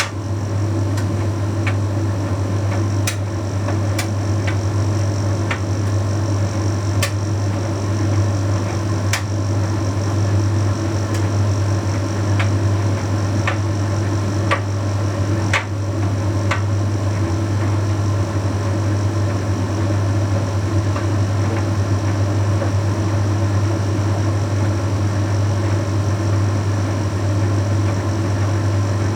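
Bosch Series 6 heat pump tumble dryer running mid-cycle: a steady low hum with an even whirr over it, and scattered sharp ticks, mostly in the first half.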